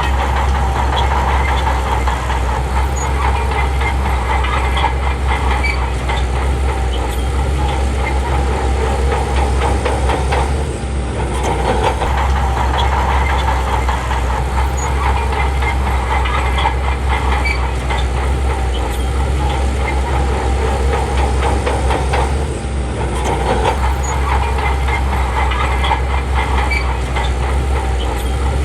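Shantui crawler bulldozer's diesel engine running under load, with a steady low drone and continuous clanking and knocking from the machine and its tracks; the level dips briefly twice.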